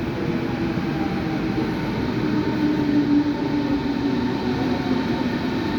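Electric city train running, a steady loud rumble with a low whine that wavers slightly in pitch.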